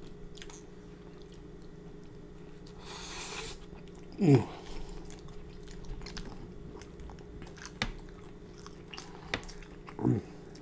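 Close-miked chewing and wet mouth clicks of a man eating a sloppy joe sandwich, over a low steady hum. Two short sounds falling sharply in pitch, about four seconds in and again near the end, are the loudest.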